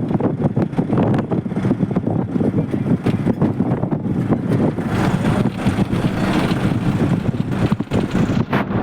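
Wind buffeting the microphone: a loud, gusty rumble that swells and dips continuously.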